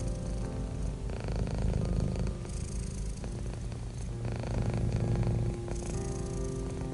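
Domestic cat purring steadily, a low pulsing rumble that swells and eases with each breath, every few seconds.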